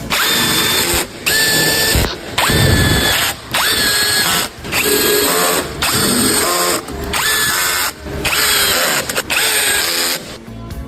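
Handheld power tool, such as a drill-driver, run in about nine short bursts of roughly a second each. Each burst spins up quickly in pitch and then holds a steady whine.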